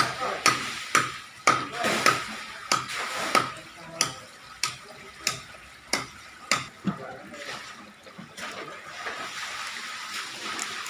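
Chopping: about a dozen sharp blows, roughly two a second, that stop about seven seconds in, leaving a steady background hiss.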